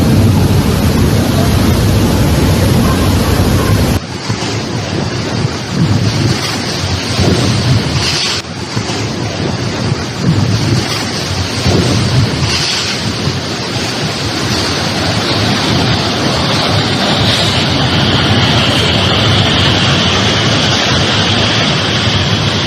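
Loud rushing noise of storm water and wind, with gusts buffeting the microphone; the sound changes abruptly to a different recording about four seconds in.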